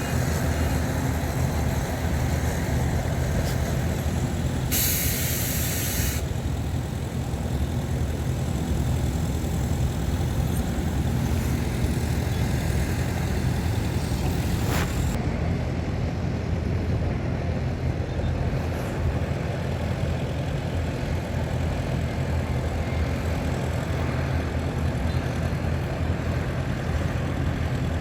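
Heavy diesel earthmoving machinery, bulldozer and dump trucks, running with a steady low drone. About five seconds in, a hiss of released air lasts a second and a half, typical of a dump truck's air brake, and a single sharp click comes near the middle.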